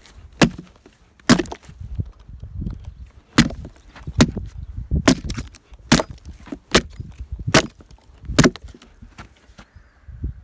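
Hand tool chopping into a wooden log, about ten sharp blows roughly a second apart, as the log is worked into a hive.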